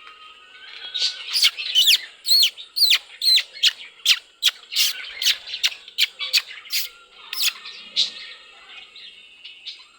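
A bird giving a rapid run of loud, sharp calls, each a quick falling note, about two or three a second, starting about a second in and stopping near the end, with softer chirping around them.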